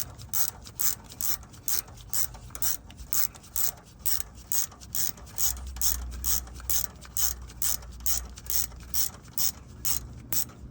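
Hand ratchet clicking steadily as it runs in the AC compressor's mounting bolts, about three clicks a second.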